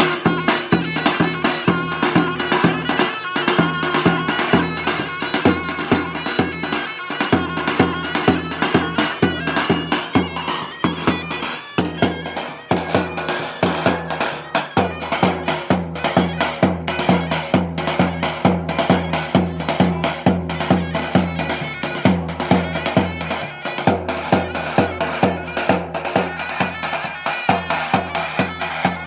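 Turkish halay folk dance music: a shrill reed wind instrument plays a continuous melody over a steady, driving drum beat.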